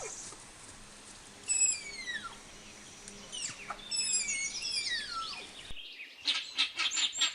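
Lowland tapir squealing: high, thin whistles that slide steeply down in pitch, four of them in the first five seconds. Near the end the sound changes abruptly to a busy run of rapid, short chirping squeaks.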